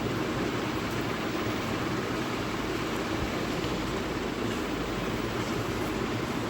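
Steady droning background noise with a few faint, soft clicks.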